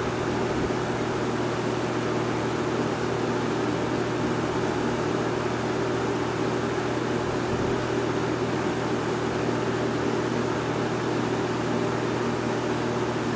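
A 1971 Monarch Aire 20-inch box fan with a McMillan motor running steadily: the rush of air from the blades over a steady low motor hum.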